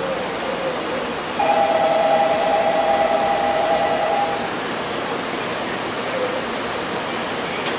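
Tokyu 8500 series electric train running, a steady rumble heard from inside the car. About a second and a half in, a loud wavering two-note tone sounds for about three seconds, then stops.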